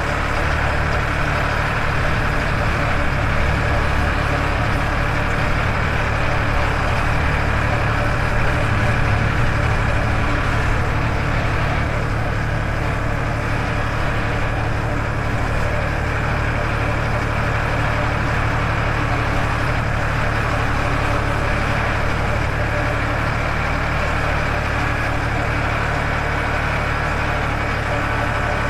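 Farmtrac 60 tractor's diesel engine running steadily as the tractor drives, heard close from the driver's seat, swelling slightly a few seconds in.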